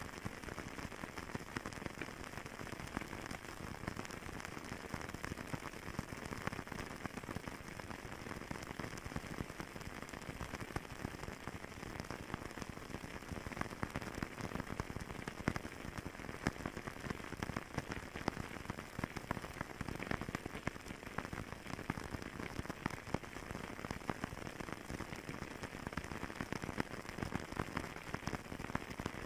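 Wood fire crackling in a fireplace: a steady hiss dense with small pops and snaps, with no pauses.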